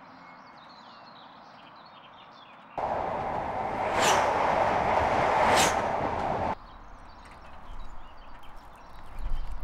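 A passenger train passing through the station at speed without stopping: a loud rushing rumble of wheels on rails with two sharp clacks, starting and cutting off abruptly. Faint birdsong chirps before it.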